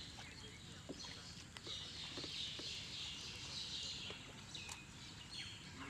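Faint outdoor ambience: scattered bird chirps and a few light ticks, with a stretch of hiss lasting a couple of seconds in the middle.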